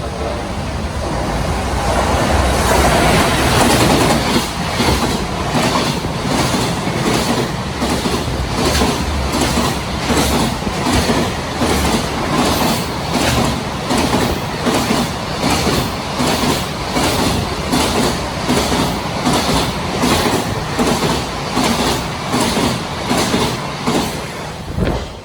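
Japanese freight train passing close by: a heavy rumble as the locomotive goes past in the first few seconds, then the regular clickety-clack of the freight wagons' wheels over the rail joints, which stops suddenly near the end.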